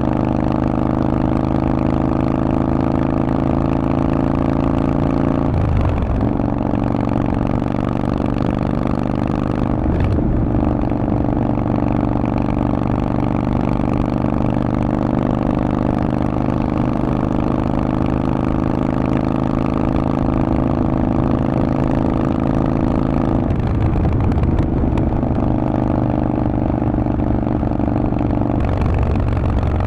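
Harley-Davidson Sportster Forty-Eight's air-cooled V-twin running loud through a Vance & Hines aftermarket exhaust under way. The engine note climbs slowly, breaking and resetting a few times as the gears change.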